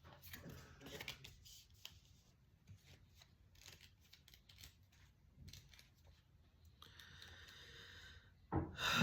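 Faint, irregular light clicks and rustles of cards being handled.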